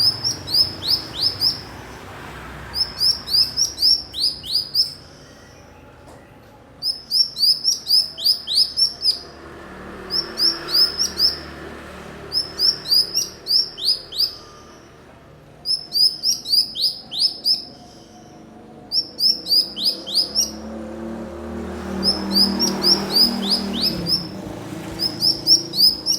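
Cucak cungkok songbird singing a repeated phrase: a quick run of about eight to ten sharp, high, falling chirps, given again and again with short pauses between phrases.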